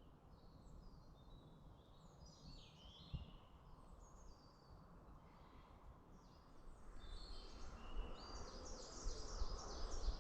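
Small songbirds singing, many short high chirps and trills, over a faint low rumble of wind. One bird's rapid run of repeated high notes grows louder over the last few seconds, and there is a single soft thump about three seconds in.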